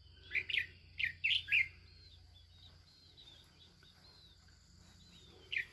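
Birds calling: a quick run of loud, sharp chirps in the first second or so, then fainter thin calls, and two more sharp chirps at the end.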